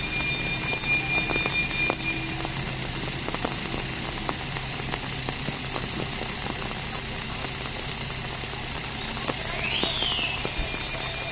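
Steady rain hissing on the road and foliage, with scattered drops ticking, over the low, steady idle of a lorry's engine. Near the end a short whistle rises and falls.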